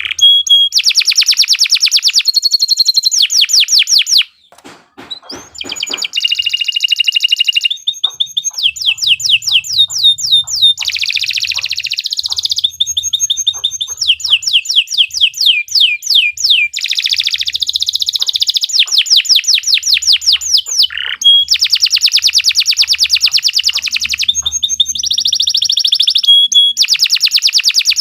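Domestic canary singing a long song of fast rolling trills and rapid repeated notes, switching to a new phrase every second or two, with a brief pause about four seconds in.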